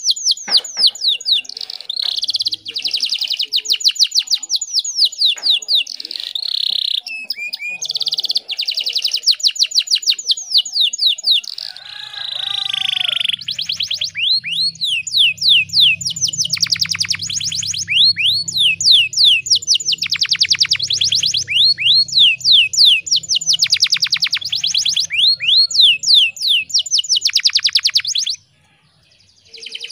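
Domestic canary singing loud, rapid rolling trills in bouts of a few seconds, with a few gliding notes in between. A low hum runs underneath for much of the time, and the song cuts out abruptly near the end.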